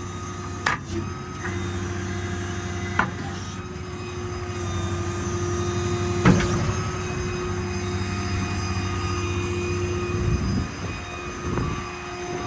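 Service truck's diesel engine and hydraulic system running under load, a steady hum with a higher whine on top. A few sharp clunks come through, about a second in, near three seconds and the loudest just past six seconds.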